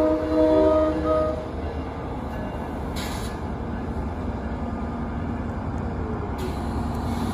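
NJ Transit train passing over a grade crossing: the locomotive's multi-tone horn chord ends about a second in, then the locomotive and Comet V passenger cars run past with steady wheel and engine noise. Two short hisses come near the middle and near the end.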